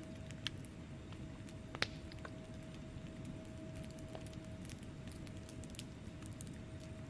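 Wood fire burning in a fireplace: a steady low rumble of flames with scattered sharp crackles from the logs, the loudest pop coming just under two seconds in.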